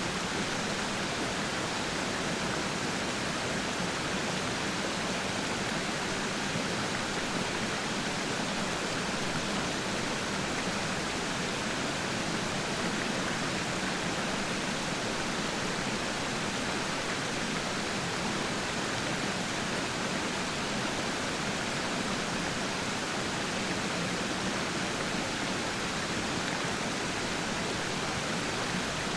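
Rushing water of a waterfall: a steady, even hiss with no breaks.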